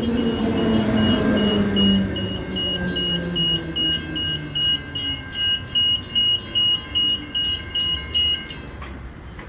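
A level crossing's warning bell dinging in a rapid regular rhythm, then cutting off near the end as the crossing clears. Under it, an electric train's motor whine falls in pitch and fades as the train moves away through the crossing.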